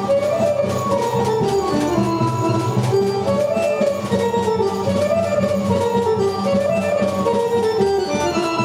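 Serbian traditional folk music played by an instrumental ensemble: a fast-running melody over a steady beat, as accompaniment for folk dancing.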